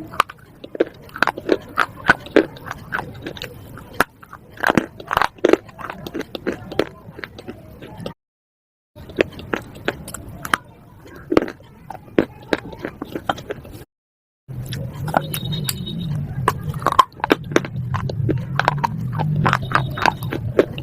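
A person biting and chewing pieces of slate: a fast, irregular run of sharp crunches and cracks, broken twice by a brief dead-silent gap. A low steady hum sits under the crunching in the last few seconds.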